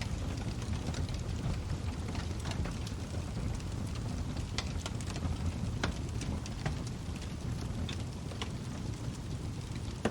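Log fire burning in a fireplace: a steady low rumble of flames with scattered sharp crackles and pops from the burning wood, the loudest cluster from about halfway through.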